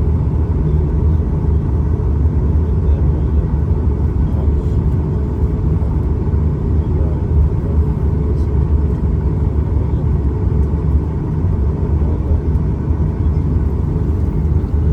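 Airliner cabin noise: a steady, loud low rumble of jet engines and airflow heard from inside the passenger cabin.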